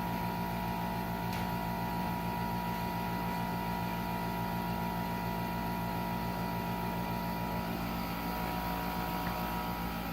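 Paris Rhone 10200 BTU window air conditioner giving a steady electrical hum made of several held tones while no air comes out: the unit is powered and trying to run but its fan does not move, a malfunction.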